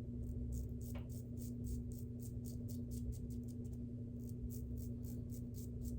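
Shavette razor with a half DE blade scraping through stubble in quick, short strokes, heard as a rapid run of crisp little rasps over a steady low background hum.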